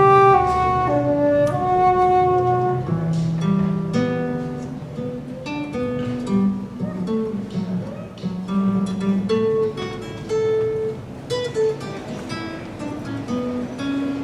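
Instrumental music: an acoustic guitar plucking notes, with a wind instrument holding long notes over it for the first few seconds.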